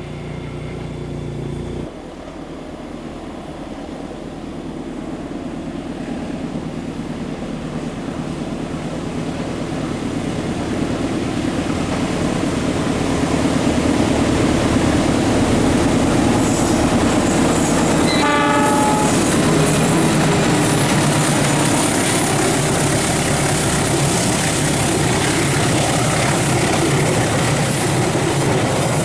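Kutojaya Utara passenger train drawing near and passing. The wheels on the rails grow steadily louder for about twelve seconds, then run on loud and continuous. A short horn blast sounds about two-thirds of the way through.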